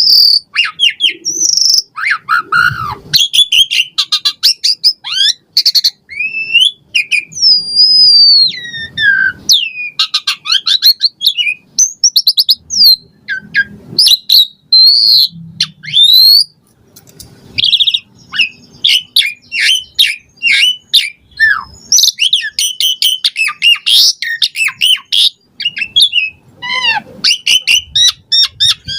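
Pied starling (jalak suren) singing a fast, unbroken, varied song of whistles, chirps and sliding notes, packed with mimicked phrases.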